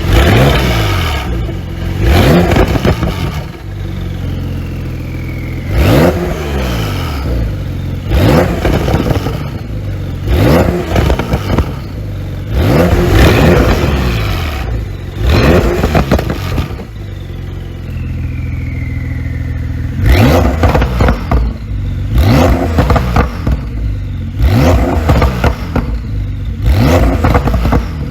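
Porsche 911 992 Carrera 4S twin-turbo flat-six revved in a series of about a dozen quick blips from idle, each rising and falling, with the exhaust flaps open and a falling whistle after some of the revs.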